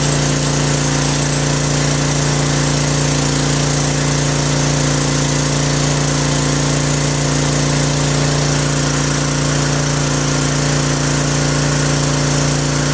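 Electric water pump used as a transfer pump, running steadily with a constant hum while it pushes waste oil from one tank to another, loaded with oil. It cuts off suddenly at the very end.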